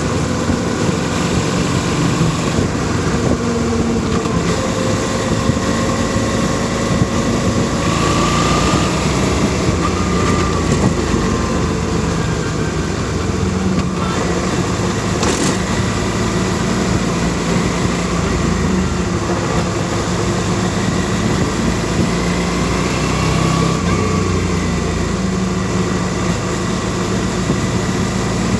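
Suzuki V-Strom DL650 motorcycle with its 90-degree V-twin engine running steadily, its pitch rising and falling a little now and then.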